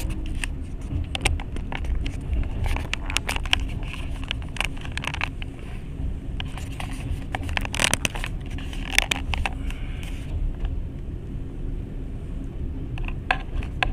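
Passenger train running, heard from inside the carriage: a steady low rumble of the wheels on the track with a faint steady hum, and irregular clicks and rattles throughout.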